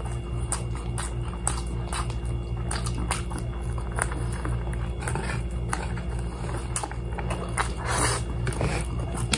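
Chewing and lip-smacking while eating fried chicken by hand: many short wet clicks and smacks over a steady low hum.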